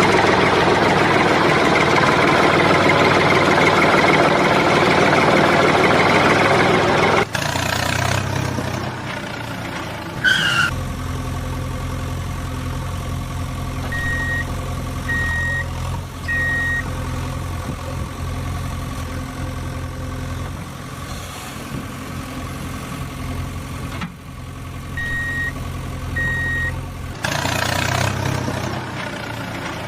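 A loud rushing mechanical noise, then a vehicle engine idling steadily. Over the idle come two runs of short, evenly spaced high beeps like reversing beeps: three, then later two.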